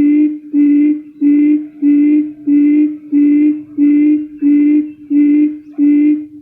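Quail lure call played back: a low, hooting note repeated steadily about every 0.6 seconds, stopping near the end.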